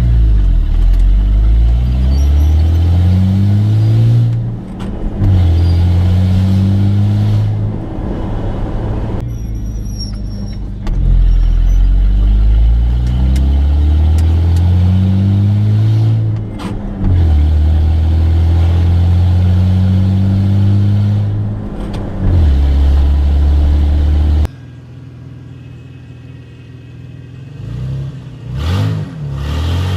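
Pickup truck engine with its exhaust cut open after the front catalytic converter, loud, accelerating hard: the pitch climbs and drops sharply at each gear shift, several times over. About three-quarters of the way through it eases off to a quieter run, then revs up again near the end.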